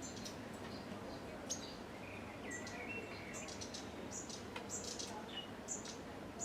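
Small songbirds chirping: many short, high chirps and a few brief whistled notes in quick irregular succession, over a steady outdoor background hiss.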